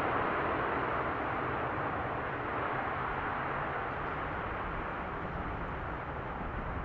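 Jet aircraft engine noise: a steady rushing roar that slowly fades as the airliner moves away.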